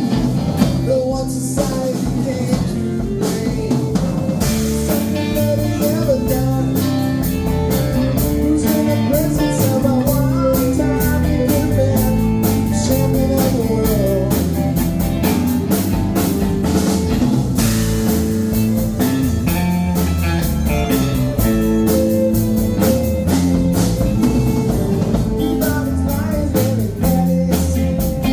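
Band playing a blues-rock passage with electric guitar and drum kit at a steady beat.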